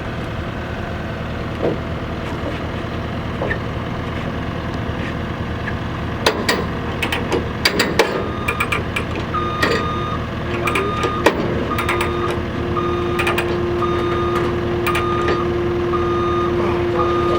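A truck's engine runs steadily with scattered metal clanks and clicks. From about nine seconds in, a reversing alarm beeps about once a second, and a steady hum tone joins a few seconds later.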